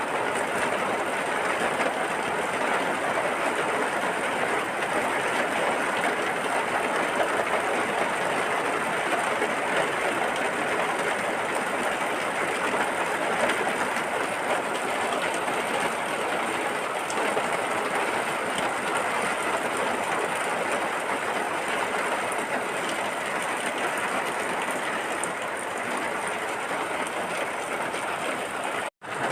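Steady hiss of heavy rain falling. It cuts out for a split second near the end.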